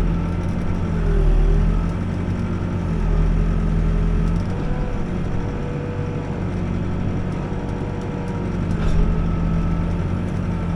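Backhoe's diesel engine running under load, its pitch dipping and recovering several times as the hydraulics work, with a few faint knocks.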